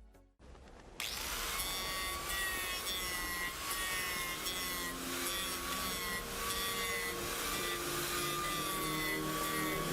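A power tool working wood starts abruptly about a second in and runs steadily. It gives a slightly wavering whine over a rough, noisy hiss of the cut.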